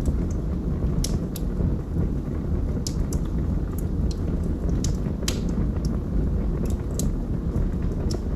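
Fire burning in a fireplace: a steady low rumble of flames with irregular crackles and pops.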